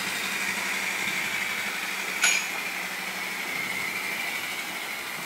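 Sugar-factory narrow-gauge train running, a steady mechanical sound with a high whine that slowly falls in pitch and a low hum underneath. A single sharp clink about two seconds in.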